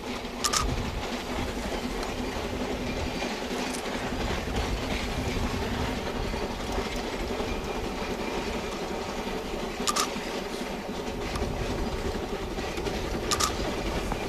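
Narrow-gauge coal train rolling on rails: a steady rumble with a few sharp clacks from the wheels and cars.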